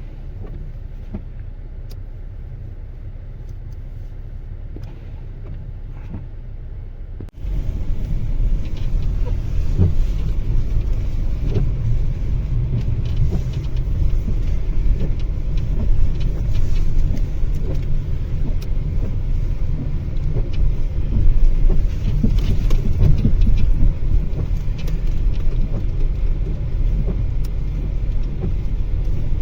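Mitsubishi Outlander running, a low steady rumble. About seven seconds in, the sound cuts abruptly to a louder, rougher rumble with scattered knocks.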